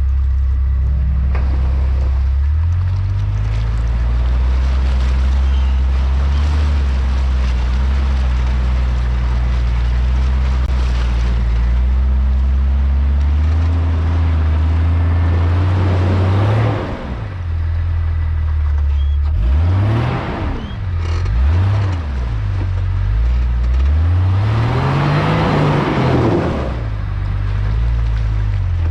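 Off-road 4x4 engine pulling steadily under load through a deep water crossing, its pitch slowly climbing; about halfway through, the throttle is blipped, with the engine revving up and dropping back several times.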